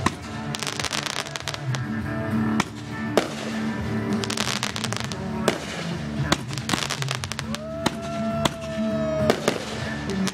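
Fireworks going off: a rapid, irregular series of sharp bangs and crackling pops, with music playing underneath.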